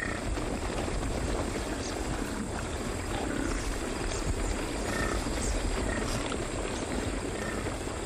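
A large herd of African buffalo on the move, a steady rumble of many hooves trampling over dry ground.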